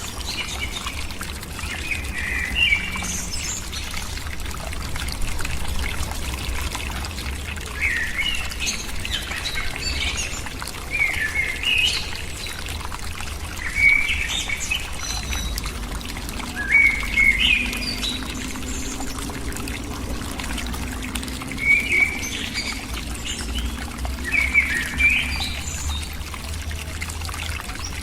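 A bird calling in short chirps, repeated irregularly every second or few seconds, over a steady hiss.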